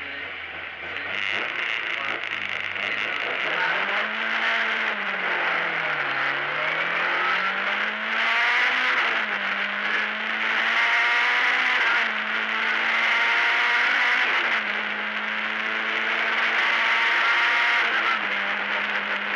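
Lada 1600 rally car's engine, heard from inside the cabin. It holds steady revs at the start line, then pulls away and accelerates hard. The revs climb and drop back several times as it shifts up through the gears.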